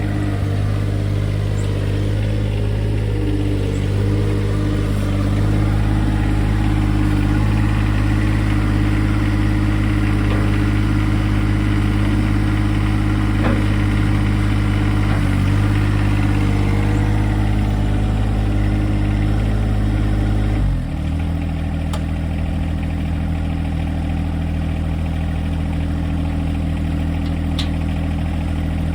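John Deere 2025R compact tractor's three-cylinder diesel engine running steadily at working speed. About two-thirds of the way through, its pitch drops suddenly and it settles into a lower, slightly quieter run.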